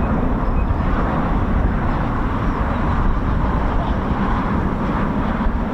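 Strong wind buffeting the microphone: a deep, steady rush of noise that flickers unevenly.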